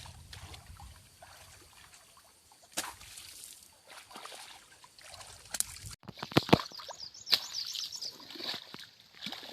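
Water sloshing and trickling, with scattered small splashes and clicks. About six seconds in, the sound breaks off sharply and comes back with louder, sharper splashes.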